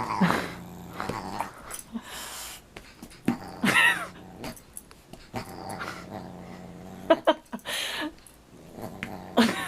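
A dog vocalizing in several short calls spaced a few seconds apart, over a faint steady hum.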